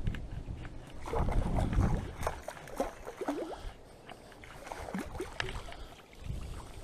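Water splashing and sloshing as a fishing magnet on a rope is hauled back through the water, with scattered clicks and wind rumbling on the microphone.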